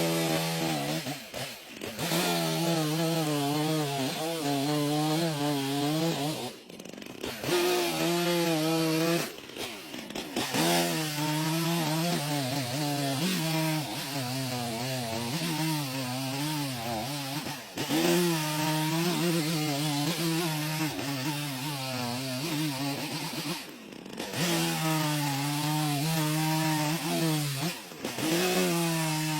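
Chainsaw engine running under load while cutting timber, its pitch wavering up and down as the chain bites into the wood, with several brief sudden breaks.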